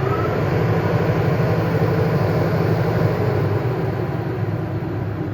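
Dayton 3 hp three-phase steel exhaust blower running just after start-up: a whine still rising in pitch for the first half second as the wheel comes up to speed, then a steady hum and rush of air. A quiet-running unit.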